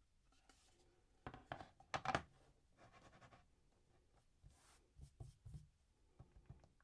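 Quiet close-up handling sounds: a cluster of light taps and scrapes about a second and a half to two seconds in, brief brushing rustles, then a few soft taps near the end.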